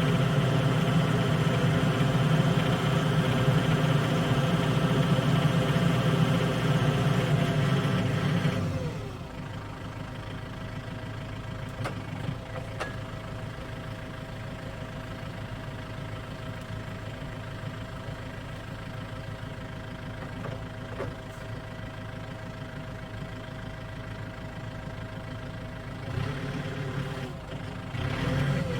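Diesel engine of a Hyundai 30D-9 three-ton forklift running: louder for about the first nine seconds, then dropping to a lower, steady idle, with two brief rises in engine sound near the end.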